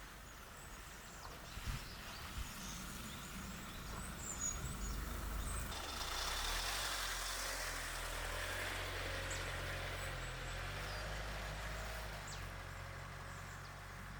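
Engine of a 1-ton camper truck running with a steady low hum, which sets in about six seconds in. A few short knocks come earlier.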